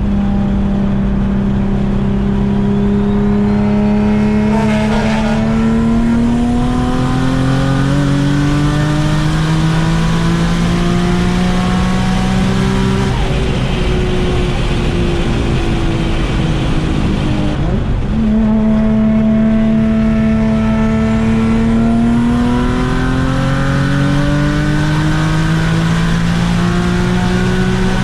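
Turbocharged V6 of a 2004 Infiniti G35 coupe pulling hard under boost. The engine note climbs steadily for about thirteen seconds, drops and eases off, then climbs again in a second long pull. It has an exhaust leak ahead of the turbo, which the owner says makes it sound bad and keeps it from building full boost.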